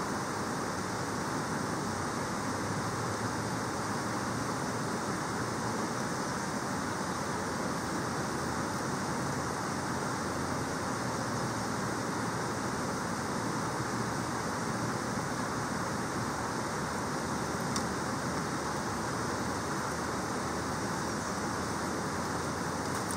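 Steady rushing of a river's waterfall, an even wash of water noise that does not change.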